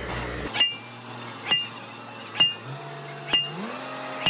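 Metal being struck with a hammer about once a second, each blow a sharp clink with a short ring, over a low steady machine hum that rises in pitch about three and a half seconds in.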